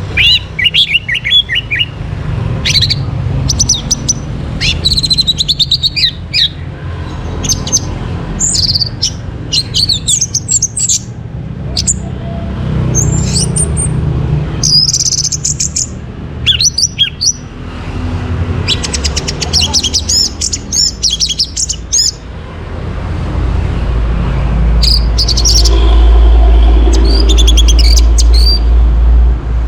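Orange-headed thrush singing, with short varied phrases of quick high whistles and chattering notes and brief pauses between them. A low rumble runs underneath and grows loud in the last several seconds.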